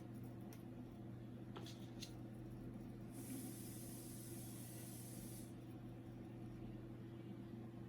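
Faint steady low hum with a couple of light clicks early on, then a soft hiss lasting about two seconds near the middle.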